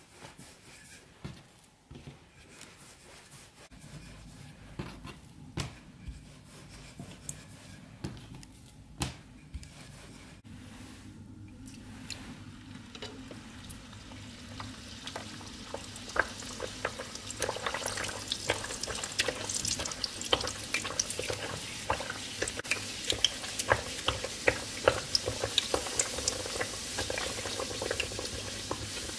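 Puri dough frying in hot oil in a pan: a sizzle with dense crackling that starts about twelve seconds in and grows louder. Before it come scattered soft knocks of a wooden rolling pin rolling out dough on a wooden board.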